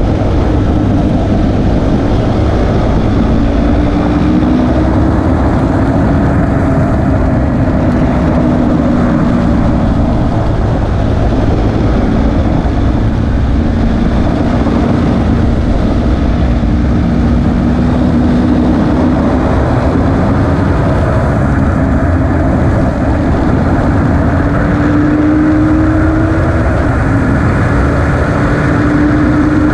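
KTM RC 390's single-cylinder engine running hard at track speed, recorded by a camera mounted on the bike, under heavy wind rush. Its pitch sinks slowly for most of the time, then climbs again over the last few seconds with a short dip partway through the climb.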